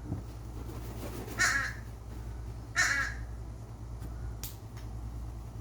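Gull giving two harsh, short calls about a second and a half apart, over a steady low hum, with a short click later on.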